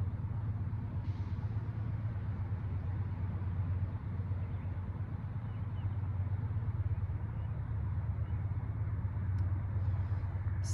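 Steady low rumble of vehicle noise, even and unchanging throughout.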